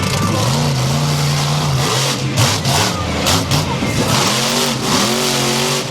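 Monster truck engine revving: the pitch climbs about half a second in and holds for about a second, then comes back as a run of short rev blips, rising and falling, in the second half, over a steady wash of noise.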